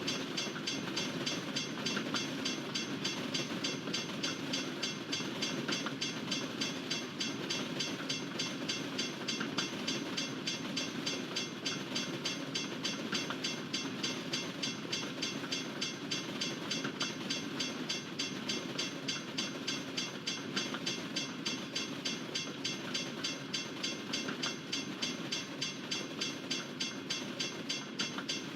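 Freight train cars rolling past, their wheels clicking over the rail joints in a quick, even rhythm of several clicks a second over a steady rumble.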